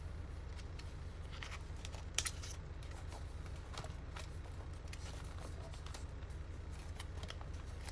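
Paper crafting at a desk: quiet rustling and handling of paper with faint scattered clicks and one sharper tap about two seconds in, over a steady low hum.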